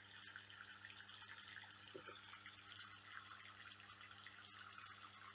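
Steady rain falling, an even patter of many small drops, over a faint low hum.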